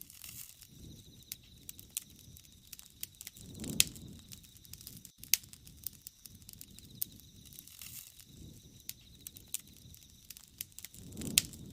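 Wood fire crackling with frequent sharp pops over a low rush of burning flame. The flame noise swells twice, about four seconds in and near the end, each time with the loudest pop.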